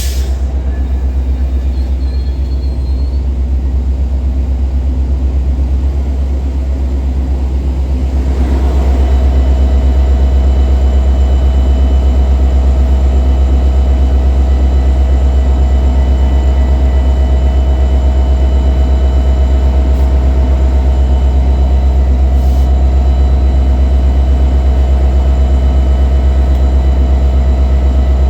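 Train rumbling steadily, with a steady engine-like hum over a deep low rumble that grows louder about eight seconds in and then holds.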